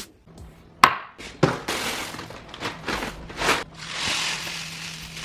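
Handling noise: a sharp knock, then a run of smaller knocks and clattering, and about a second of rustling near the end.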